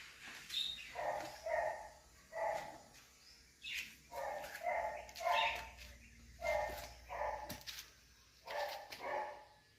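A dog barking repeatedly: about a dozen short barks, several coming in quick pairs.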